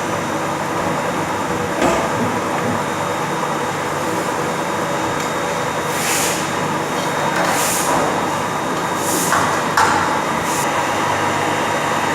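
Steady machine-shop noise from running machinery, with several steady tones. Four short hisses come about halfway through, and there are a couple of single knocks.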